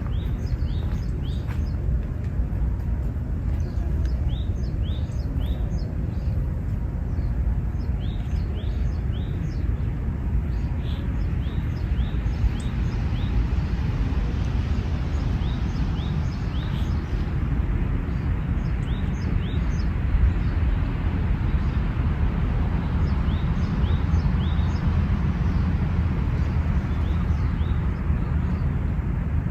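Small birds giving short, high chirping calls in quick clusters of two or three, repeated all through, over a steady low rumble of outdoor background noise that swells somewhat in the middle.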